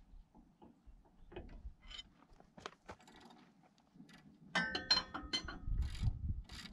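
Metal clicks and clinks of a 27 mm socket wrench working loose the grease fitting on a mini excavator's track tensioner. A quick run of sharp, ringing metallic clinks comes about four and a half seconds in, with a few dull knocks.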